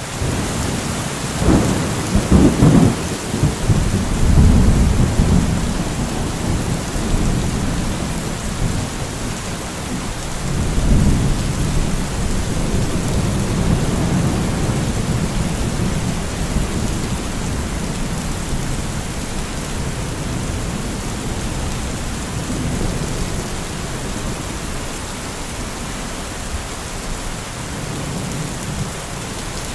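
Steady heavy rain with rolling thunder: a long low rumble builds about a second and a half in, and another about eleven seconds in.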